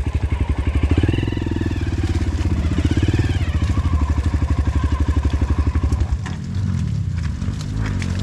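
Honda CRF150L's single-cylinder four-stroke engine running under load on a dirt bike, its revs rising about a second in and again around three seconds, then easing off about six seconds in.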